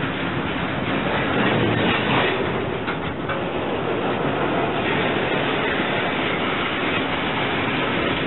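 Freight train's boxcars rolling slowly past: a steady rumble and rattle of steel wheels on the rails, with a few clanks about two and three seconds in.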